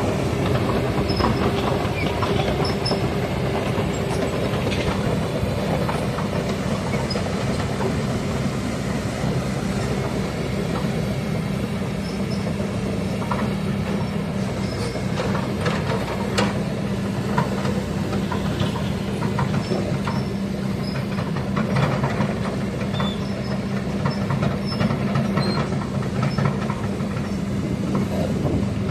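Heavy diesel engine of an excavator running steadily under load, with scattered sharp metallic clanks as steel is handled off a trailer truck, several of them coming close together about halfway through.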